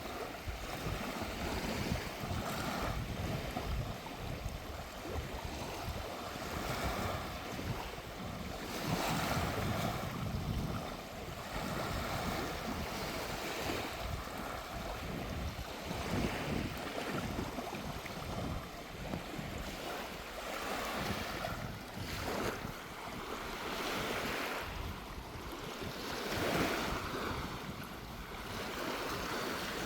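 Small waves breaking and washing up the beach, swelling and easing every few seconds, with sea breeze buffeting the microphone.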